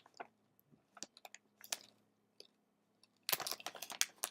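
Crinkly snack bag of beet chips being handled and turned over: scattered faint crackles, then a dense run of loud crinkling from about three seconds in.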